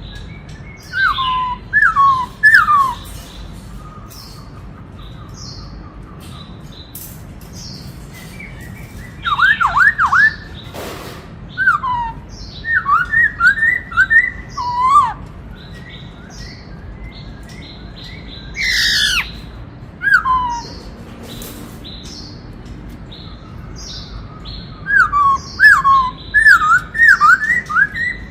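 Black-throated laughingthrush (khướu bạc má) singing in four bouts of loud, clear, falling whistled notes, with pauses of several seconds between phrases.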